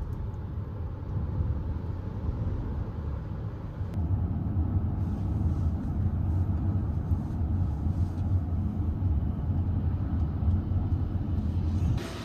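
Steady low rumble of a moving vehicle, which grows louder about four seconds in.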